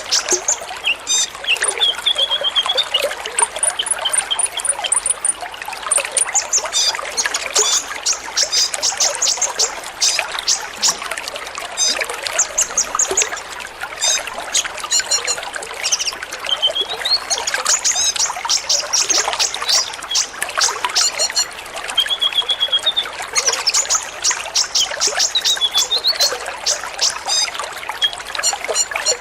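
A group of kolibri ninja sunbirds chirping and trilling together, with rapid high trills and short chirps throughout. A steady trickle of running water sounds beneath them.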